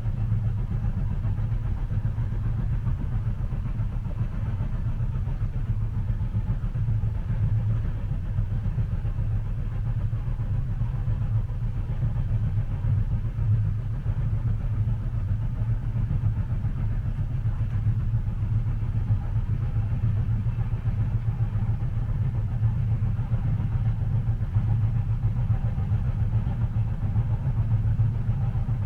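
Steady low rumble of a train running, as heard inside a passenger car, even and unbroken with no distinct rail-joint clicks.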